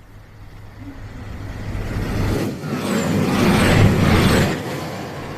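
A road vehicle passing by: its engine and tyre noise swells to a peak about three to four seconds in, then fades.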